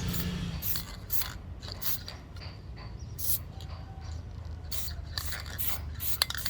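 A hand tool scraping in short, irregular strokes over a steady low hum.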